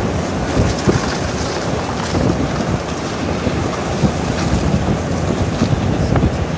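Strong wind roaring and buffeting the microphone: a loud, continuous rumble with uneven gusty thumps.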